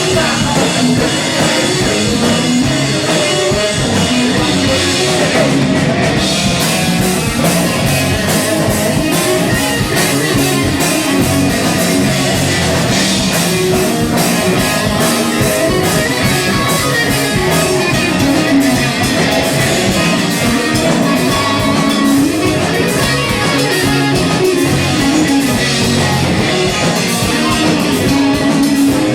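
Live rock band playing loud and steady, with distorted electric guitar over a drum kit with cymbals.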